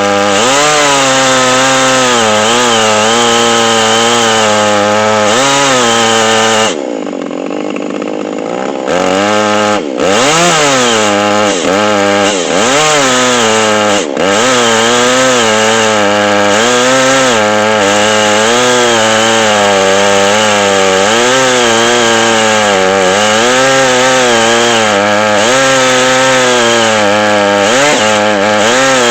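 Chainsaw mounted in an Alaskan chainsaw mill running under load as it rips along a log, its engine pitch wavering up and down as the cut loads it. About seven seconds in the engine drops lower and quieter for a couple of seconds, then picks back up. The cut goes slowly on a standard, non-milling chain.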